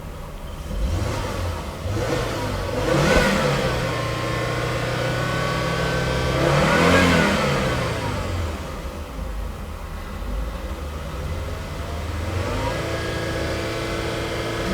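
2009 Volvo S60 2.5T's turbocharged 2.5-litre inline five-cylinder engine being revved from idle four times. There is a small blip about a second in, a sharper one around three seconds, a longer and loudest rise and fall around seven seconds, and a lighter one near the end. The engine settles back to a steady idle between revs.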